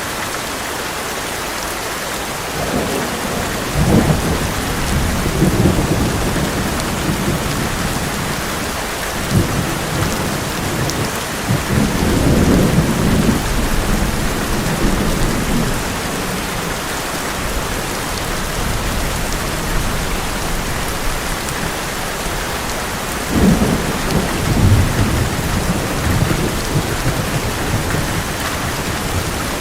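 Heavy rain drumming steadily on an old metal roof, with thunder rumbling three times: a few seconds in, about halfway, and again near the end.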